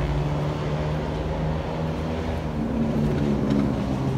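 Ford Mustang 2.3 EcoBoost four-cylinder engine idling steadily: an even low drone with a low hum, heard from inside the cabin.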